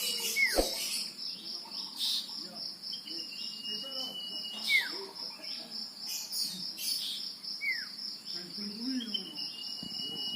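Male common iora (sirtu/cipoh) singing its phrase several times: a long, level whistle that ends in a quick down-slurred note, repeated about every three seconds. A steady pulsing insect trill runs underneath.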